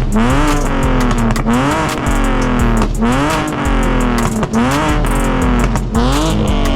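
Car engine revved over and over in quick blips, each rev climbing sharply and then dropping back, with music playing underneath.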